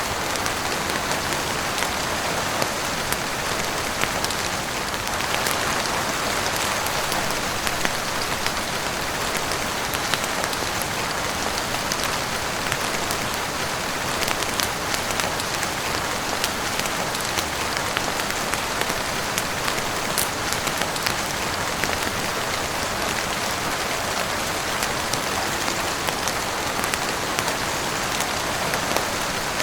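Steady heavy rain falling on a roof and windows: an even hiss dotted with many small, sharp drop ticks.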